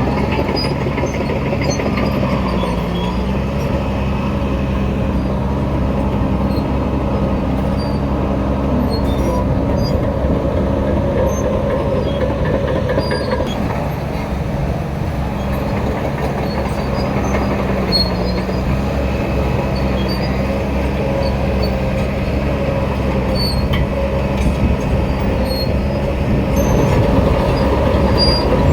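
Shantui DH17 bulldozer's diesel engine running steadily, its pitch dipping briefly twice as it takes load, with scattered short high squeaks from the steel tracks.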